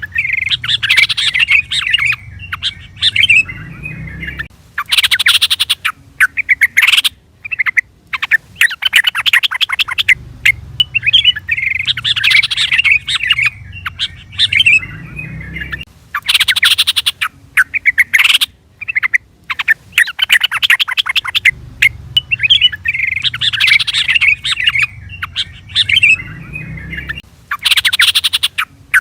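Yellow-vented bulbul (trucukan) calling: loud bursts of quick, bubbly chattering notes broken by short pauses, the same sequence of phrases repeating about every 11 seconds.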